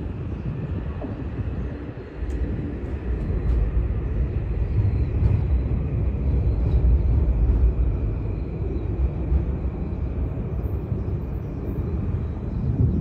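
Metro-North electric commuter train pulling out, a steady low rumble of wheels on the rails that swells about two seconds in and holds.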